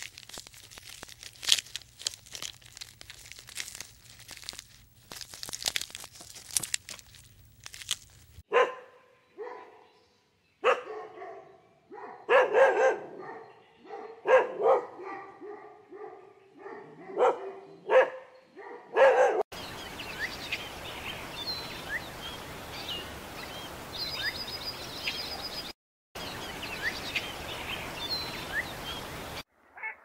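A donkey chewing and tearing green fodder, a run of crisp crunching clicks, for about the first eight seconds. Then a Shiba Inu barking in short, irregular calls for about eleven seconds. After a cut, a steady hiss with short high chirps of birds.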